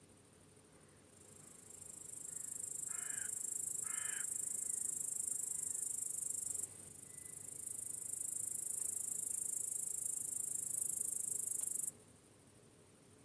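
High-pitched cricket trilling swells in twice and cuts off suddenly each time, over a faint low hum. About three seconds in, a bird gives two short harsh calls a second apart.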